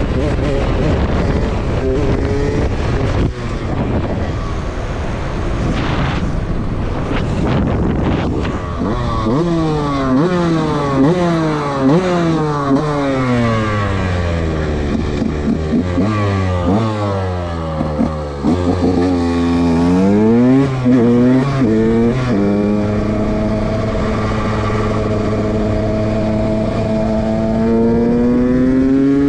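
Dirt bike engine being ridden: rough wind and road noise at first, then the engine revs climb and drop back again and again as it shifts up through the gears, and in the last few seconds it holds a steady note that slowly rises.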